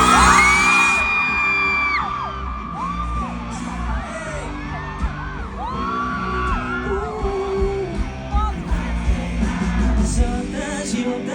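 Live band playing a song's opening, heard loud on a phone recording from the audience, with fans screaming and cheering over the music.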